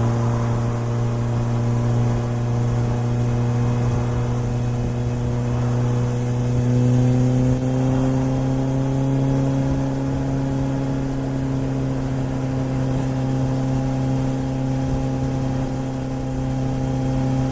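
Suzuki GSR750's inline-four engine running through a Yoshimura exhaust on the move, a steady note that climbs slightly in pitch a few seconds in and then holds level at a steady cruise.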